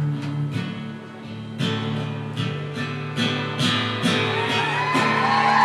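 Live band playing the closing bars of a country song, acoustic guitar strummed about twice a second over a steady bass. Near the end the crowd starts whooping and whistling.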